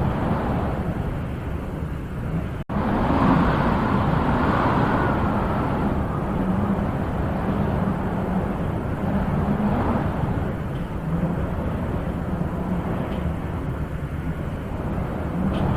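Wind blowing in gusts, swelling and easing every few seconds, with a sudden brief cut in the sound about two and a half seconds in.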